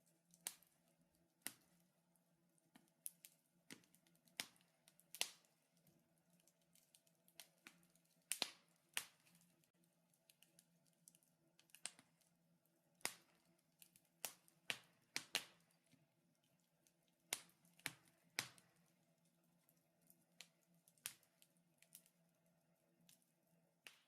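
Wood fire crackling in a fireplace: irregular sharp pops and snaps, scattered unevenly and some much louder than others, over a faint steady hum.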